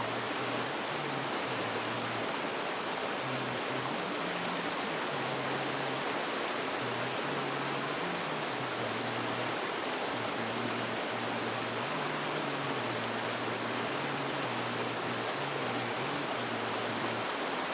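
Waterfall rushing in a steady, unbroken wash, with no birdsong standing out. A faint low hum steps between a few pitches underneath.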